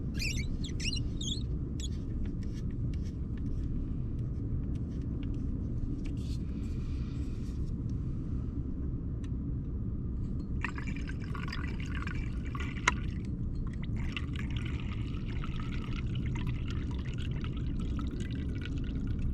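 Liquid alcohol fuel being poured into the burner of a small Trangia-style alcohol stove, in a short spell and then a longer one starting about halfway through, with small clicks of the bottle and stove. A steady low rumble runs underneath.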